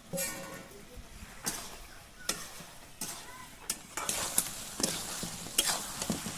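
Chicken and potatoes frying in oil in a metal kadai: sizzling, with a spatula stirring and scraping the pan about once a second, more often in the last couple of seconds.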